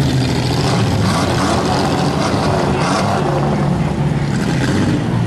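Several demolition derby cars' engines running and revving, with pitches rising and falling over one another.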